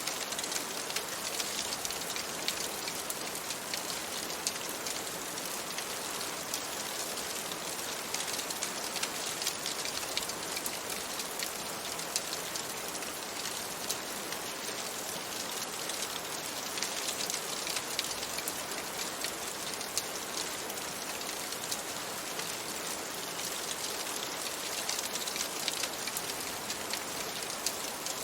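Steady rain falling on a surface, an even hiss dotted with many small, sharp drop ticks.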